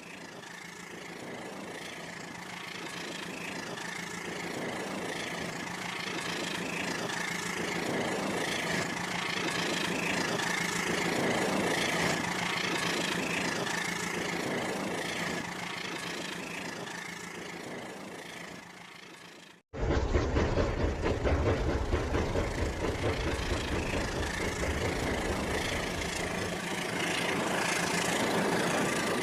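Toy train's small electric motor whining steadily as it runs along the track, with a regular soft clatter about every second; it grows louder and then fades. Two-thirds in it cuts abruptly to a louder, closer run of the same train.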